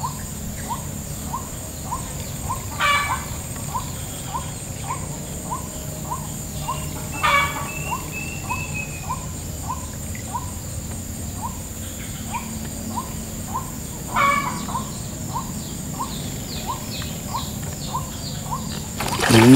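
Bird calls in the open: a short dropping chirp repeated about twice a second, with a few louder calls about 3, 7 and 14 seconds in, over a steady high-pitched hum. A louder rising sound starts just before the end.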